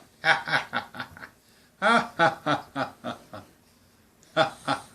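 Quaker parrot vocalizing in short, speech-like repeated syllables, in three bursts with pauses between them.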